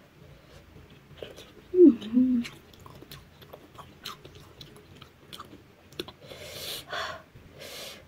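Close-up chewing and crunching of a crisp snack eaten by hand, with many small crunches. About two seconds in there is a short hummed vocal sound, the loudest moment, and a few breathy exhales come near the end.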